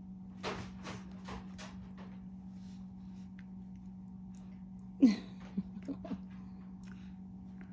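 A puppy playing with a soft toy: scattered scratchy clicks, then a short, sharp squeak falling in pitch about five seconds in, followed by a few fainter ones, over a steady low hum.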